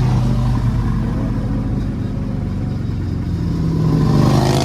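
A car's engine and exhaust running loud at close range with a steady low note, which rises a little and grows louder near the end as the engine picks up revs.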